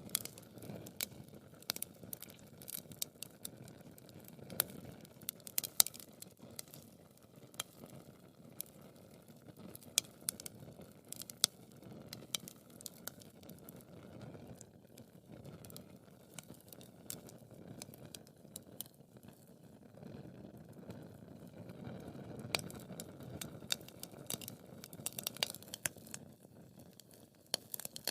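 Wood fire burning in a fireplace, with irregular sharp crackles and pops over a soft low rush of flames.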